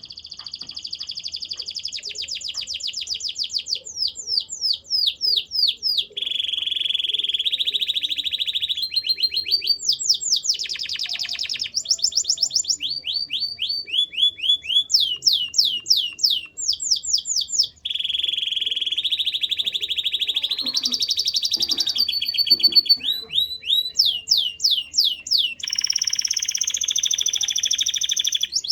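Male domestic canary singing a continuous song of rapid trills, fast repeated down-sweeping notes and held buzzy rolls, switching phrases every few seconds.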